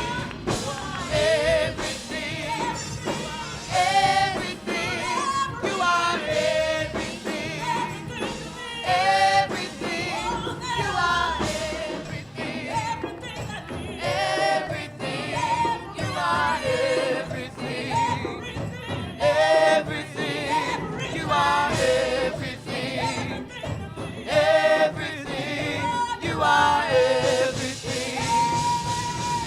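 Gospel singing with instrumental backing: sung phrases with held, wavering notes over a steady accompaniment.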